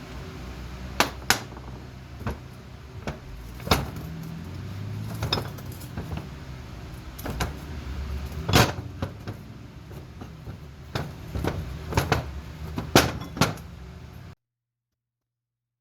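Irregular sharp clicks and knocks, about a dozen, over a steady low hum. The sound cuts off abruptly to silence near the end.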